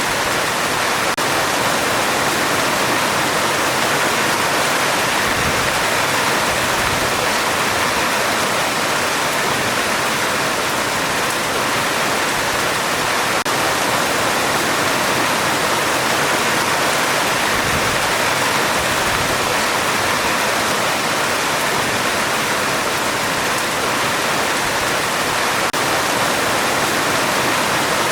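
Heavy rain drumming steadily on a metal roof, a dense even hiss with no breaks.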